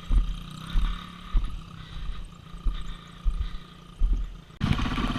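Small kids' dirt bike engine running at low throttle, with irregular low thumps, and a sudden louder, steadier stretch near the end.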